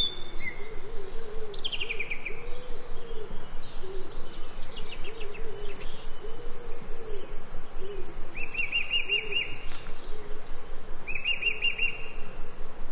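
Forest birds calling: a low hooting call repeated over and over, with short high chirping trills every few seconds.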